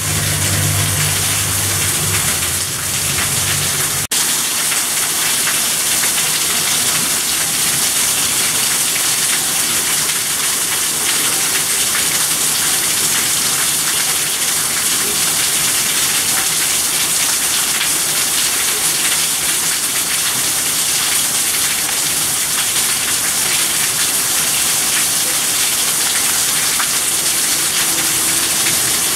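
Heavy rain falling steadily, a dense even hiss of rain on surfaces. A low hum under it stops abruptly with a click about four seconds in.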